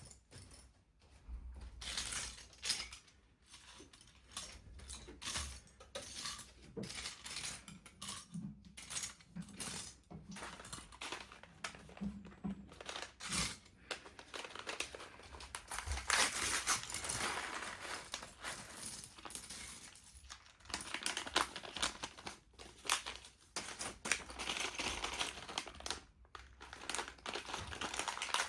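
Packaging crinkling and rustling in irregular bursts while a LEGO set is unboxed, busier in the second half.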